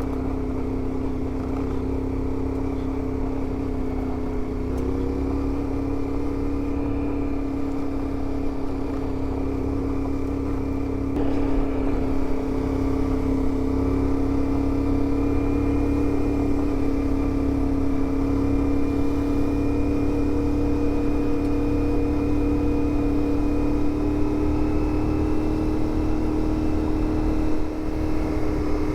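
CFMOTO 450MT adventure motorcycle's parallel-twin engine running at a steady cruising pace on a dirt trail, with low wind rumble on the microphone. It gets a little louder about twelve seconds in and its pitch creeps slowly up.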